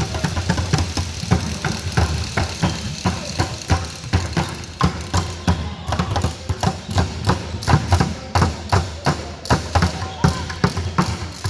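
Rapid, irregular knocks and clatters, several a second, over a steady low rumble.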